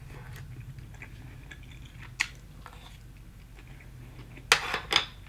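A person chewing and biting into crispy fried chicken, with a sharp click about two seconds in and two louder crunchy bites near the end.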